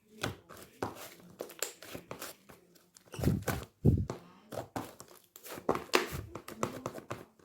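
Cheese-style slime being squeezed and stretched by hand, giving irregular sticky pops and crackles.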